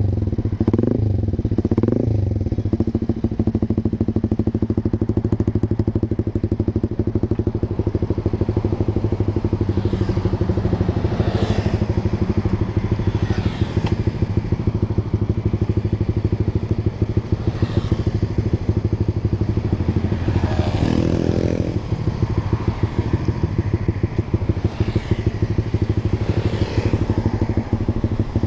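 Honda Sonic 150R's single-cylinder engine running through a Proliner TR1 short aftermarket exhaust, idling steadily with a couple of quick throttle blips right after the start and another about two-thirds through.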